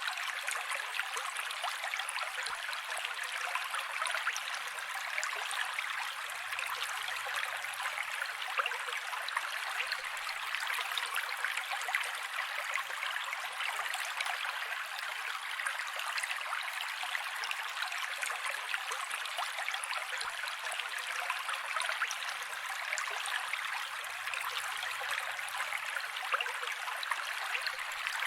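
Mountain creek flowing, a steady rush of water with fine splashing and little low rumble.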